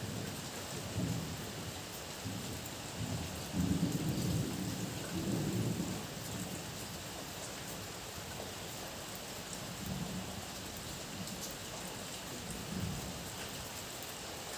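Heavy rain falling steadily, with thunder rumbling low underneath. The rumble is loudest from about three and a half to six seconds in, then comes back as weaker rolls.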